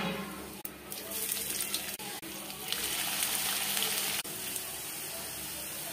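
Seeds and then chopped onions sizzling in hot oil in an iron kadai. The hiss swells loudest a little under three seconds in, then drops suddenly after about four seconds to a steady, quieter sizzle.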